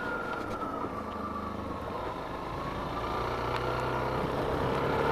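Suzuki DR-Z400's single-cylinder four-stroke engine running under way. Its note sinks for about two seconds as the bike slows, then climbs again as it gathers speed.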